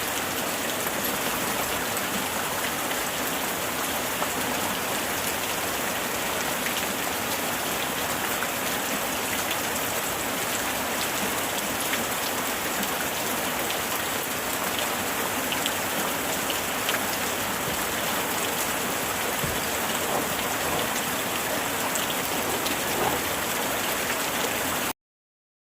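Heavy rain falling steadily, a dense even hiss with scattered sharp drop ticks. It stops abruptly near the end.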